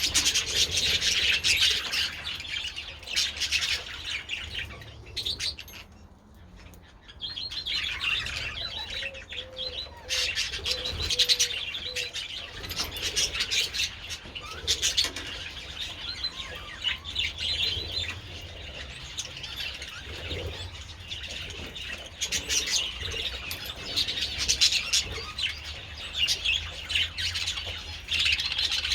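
A colony of budgerigars chattering and chirping in a dense, continuous warble, with wings flapping now and then. The chatter dips briefly about six seconds in.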